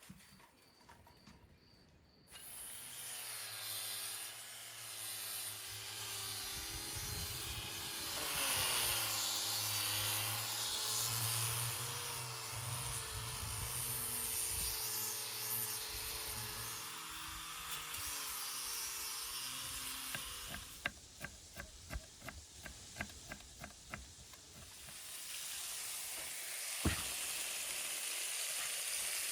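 Cooking sounds: a steady hiss with a faint wavering tone in it. A quick run of taps comes about two-thirds of the way through, and a single sharp knock near the end.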